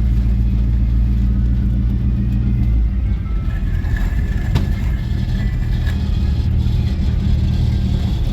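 Motor vehicle running under way: a steady, low engine drone whose note changes about three seconds in.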